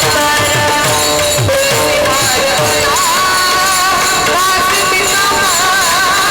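Marathi devotional kirtan music: steady sustained notes with low drum strokes that drop in pitch for the first couple of seconds. About three seconds in, a long sung note with a wavering pitch enters and is held.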